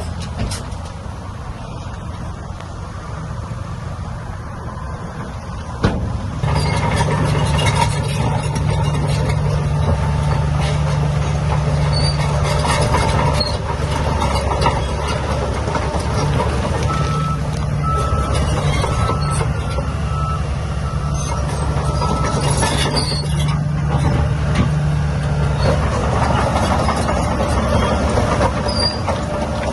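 Heavy earthmoving machine's diesel engine working steadily with a low hum; it comes in much louder after a sharp knock about six seconds in. A short run of high beeps sounds in the middle.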